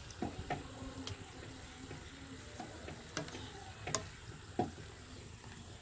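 Golgappa puris frying in hot oil: a faint steady sizzle with a few scattered sharp clicks.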